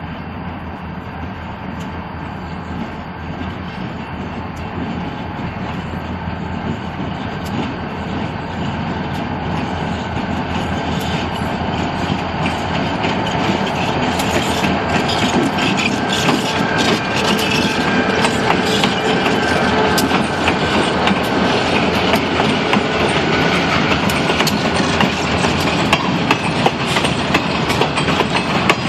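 Slow freight train led by two EMD GP40-3 diesel locomotives drawing closer and growing steadily louder. From about halfway in, the wheels clack over the joints of worn jointed rail.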